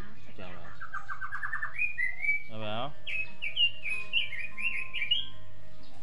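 Songbirds chirping and singing: a fast rising series of notes about a second in, then a run of varied short chirps. Twice a short rising whine sounds beneath them.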